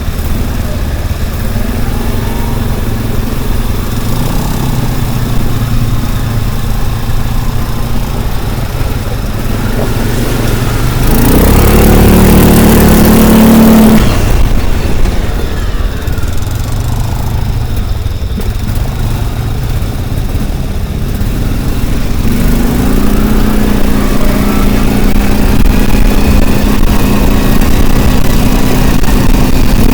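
A vehicle engine running steadily. It swells into a louder, rushing passage for a few seconds around the middle, and its hum rises again in the last third.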